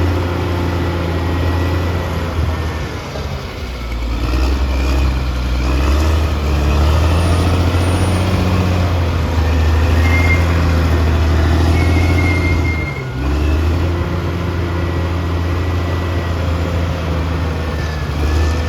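Caterpillar D6R XL bulldozer's diesel engine running under working load, its deep note swelling a few seconds in and dipping briefly a little past two-thirds of the way through. A thin high tone sounds briefly twice in the middle.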